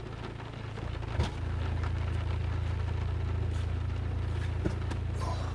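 Steady low rumble of a car, with a soft thump about a second in and a few faint clicks.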